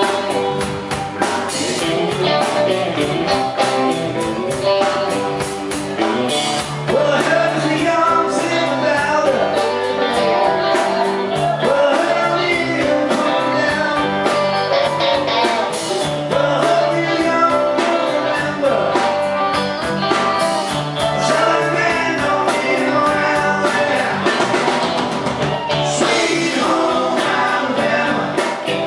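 Live rock band playing a Southern rock song: electric guitars over bass and drums, with singing.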